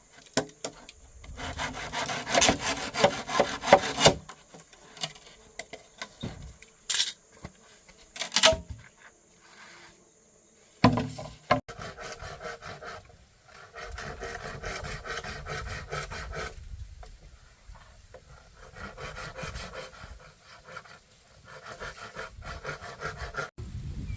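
Hand saw cutting wood in several bouts of quick back-and-forth strokes, with a few sharp knocks in between.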